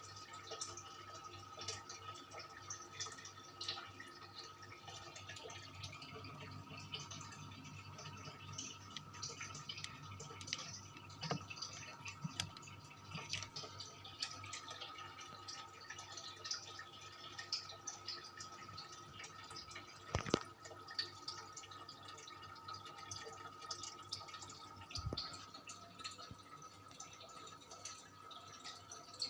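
Industrial 56-inch ceiling fan running: a steady hum with a constant high whine, overlaid by irregular light ticks, and a sharper click about twenty seconds in.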